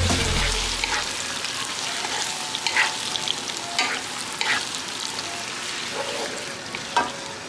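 Squid, onion and ginger sizzling in a nonstick wok while being stirred with a wooden spatula, with several short scrapes of the spatula against the pan.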